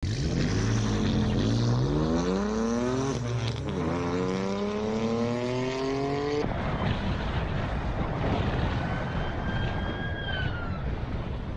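A car engine accelerating hard through the gears, its pitch climbing and dropping back at each shift. About six seconds in, it cuts abruptly to steady road and wind rumble, with a faint high tone sliding down near the end.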